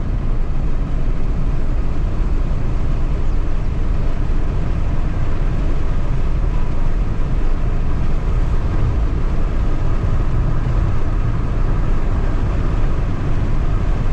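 Car driving: steady engine and road rumble.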